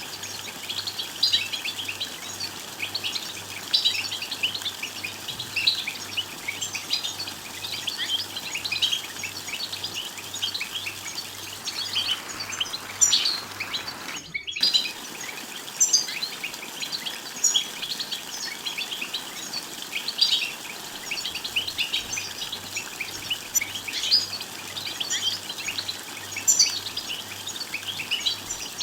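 European goldfinch song: rapid, dense twittering chirps, with a brief sudden break about halfway through.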